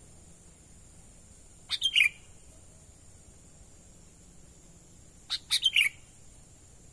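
Sooty-headed bulbul calling: two short bright phrases of a few quick notes each, about three and a half seconds apart, each ending on a lower note.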